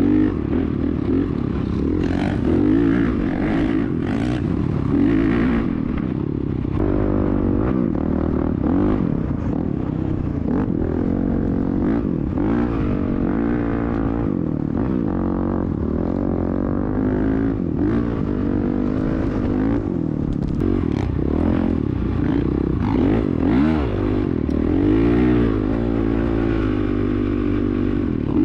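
Dirt bike engine running under way, its pitch rising and falling again and again as the throttle is worked.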